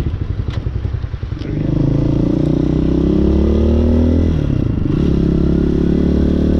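Hawk 250 dirt bike's single-cylinder engine, heard from the rider's seat. It pulses at low revs at first, then about a second and a half in it pulls away with the pitch rising steadily. The pitch dips briefly at a gear change a little past four seconds, and the engine runs on steadily after.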